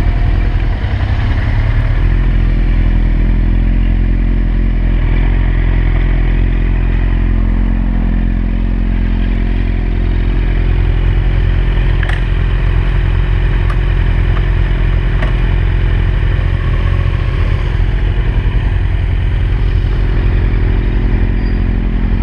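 Motorcycle engines idling steadily close by, the camera bike's Yamaha FZ8 with a Suzuki SV650 beside it, with a few light clicks a little past the middle.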